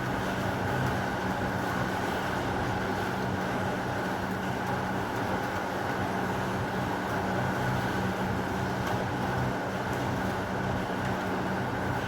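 Steady heavy rain, a continuous even rush with a low steady hum beneath it.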